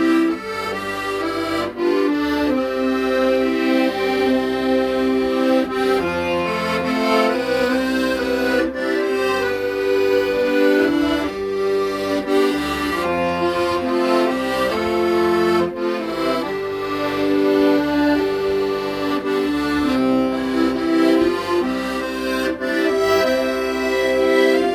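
Accordion playing a slow, lyrical Korean pop melody, its reeds holding sustained notes and chords over bass notes that change every second or two.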